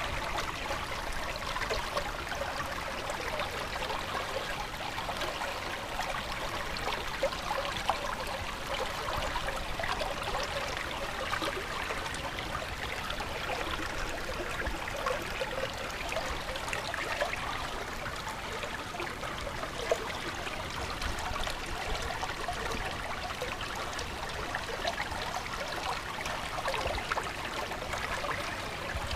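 Running water in a stream, babbling steadily with many small gurgles and splashes.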